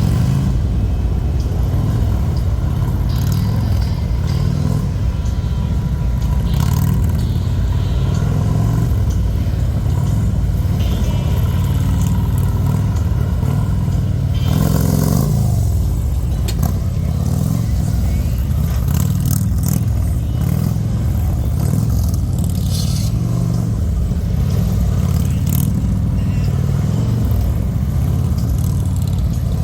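Police motorcycle engines running at low speed with repeated throttle revs, a steady low rumble that rises and falls in pitch, with a brief louder surge about halfway through.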